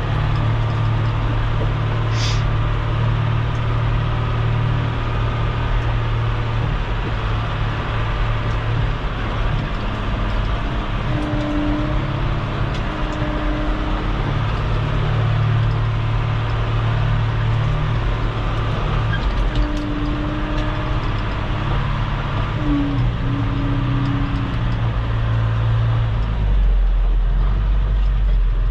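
Engine of a loader working a bucket in float position, running steadily as it drives over muddy aggregate base, with short higher whines coming and going and a brief high squeal about two seconds in.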